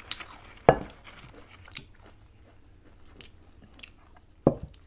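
Close-up eating sounds: chewing and crunching of food, with many small crackly ticks and two louder sharp clicks, one about a second in and one near the end.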